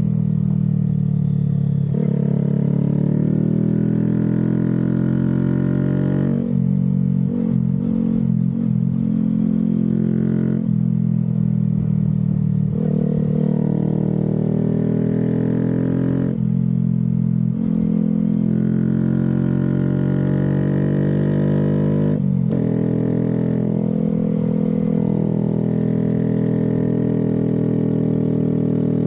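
Honda Grom 125's single-cylinder four-stroke engine running hard on the move, its pitch rising and falling with the throttle. The engine note dips or breaks off briefly about four times, with a choppy stretch about a third of the way in.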